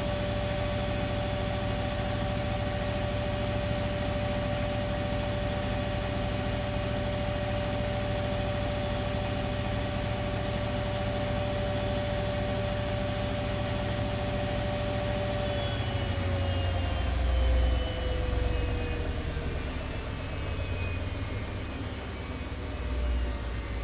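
ATLANT 70C1010 front-loading washing machine in its spin cycle: a steady high motor whine, then about sixteen seconds in the whine starts falling in pitch as the drum slows down, with a couple of low rumbling swells.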